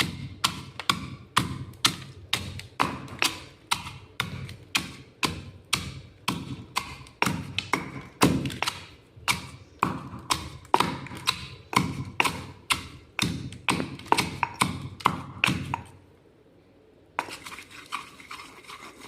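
Ice being crushed: a run of sharp, crunchy cracks at about two a second. Near the end it pauses for about a second, then the crunching starts again, softer and quicker.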